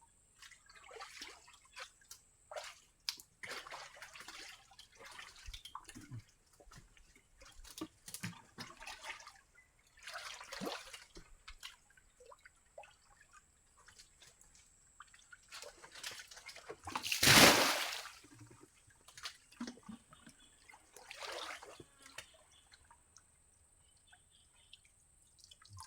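Shallow muddy water splashing and sloshing in irregular bursts as hands grope through it for fish, with one much louder splash about two-thirds of the way through.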